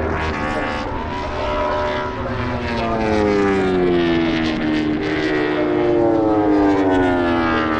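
MotoGP race motorcycle engines at high revs, the note sliding down in pitch three times in long glides.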